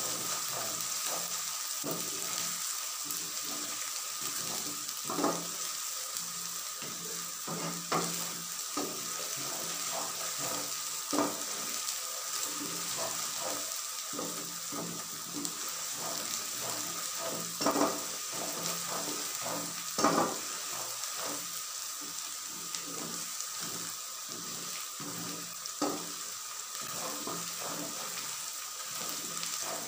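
Onions and ginger-garlic paste sizzling in hot oil in a pot while a spatula stirs them steadily, scraping and knocking against the pot, with a few louder knocks now and then.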